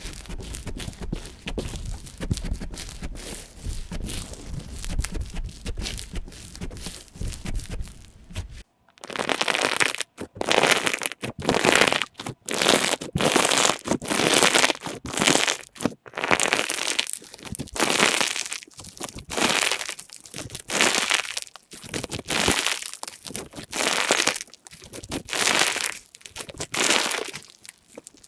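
Slime being squeezed and pressed by hand, crackling and crinkling. It is quieter with a low rumble for the first third, then after a sudden cut come loud crackling presses about once a second.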